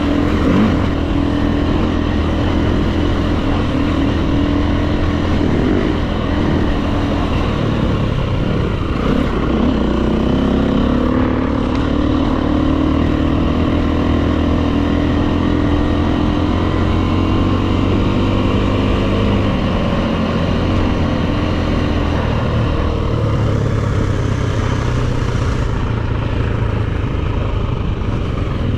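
Dirt bike engine running on a trail ride, its revs rising and falling as the rider works the throttle.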